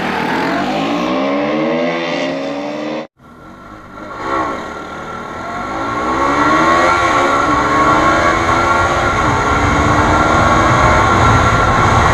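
Pulsar 200 motorcycles' single-cylinder engines accelerating hard in a drag race, the pitch climbing and dropping back at each upshift. A cut about three seconds in breaks the sound, then the engines rise through the gears again, louder.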